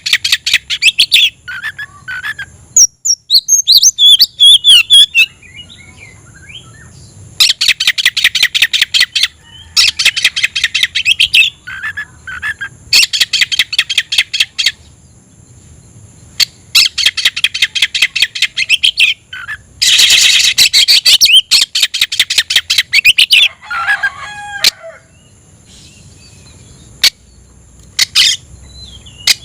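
Oriental magpie-robin (kacer) singing: loud bursts of fast, rattling repeated high notes lasting one to two seconds each, broken by short gaps and a few warbled phrases.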